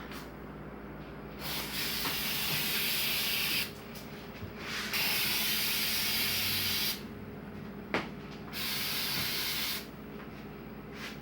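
Aerosol can of sealant spraying around the pipe fittings in three long hissing bursts of about one to two seconds each.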